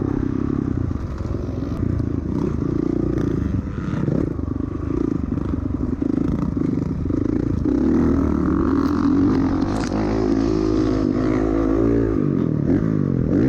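Honda CRF450R single-cylinder four-stroke motocross engine being ridden, revving up and down as the throttle opens and closes. Near the end the revs drop away as the bike slows.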